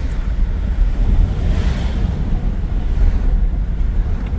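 Wind buffeting the microphone of a moving vehicle: a steady deep rumble, with a brief swell of hiss about a second and a half in.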